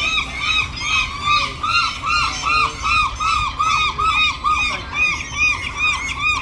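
Gulls calling in a rapid, overlapping chorus of short arched squawks, about four a second.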